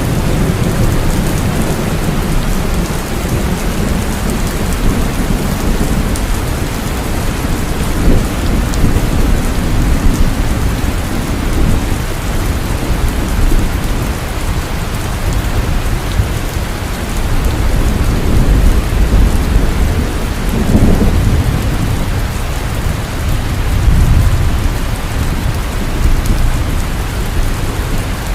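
Heavy rain falling steadily, with low thunder rumbling underneath that swells and fades several times, loudest about two-thirds of the way through.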